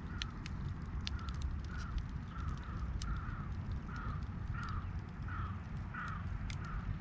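Crows cawing in a quick run of short repeated calls, a few a second, loudest in the middle of the run. Scattered sharp clicks and a steady low rumble sit underneath.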